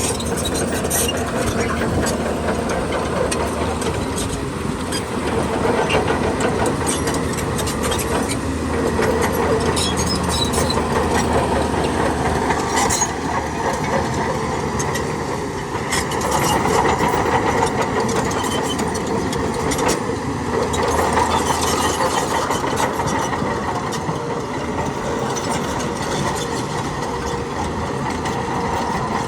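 Heavy diesel earthmoving machinery running steadily, with scattered short clicks and knocks over the engine noise.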